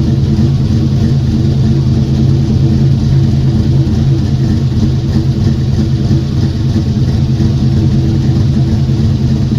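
Car engine running steadily at a constant speed, its low hum holding an even pitch.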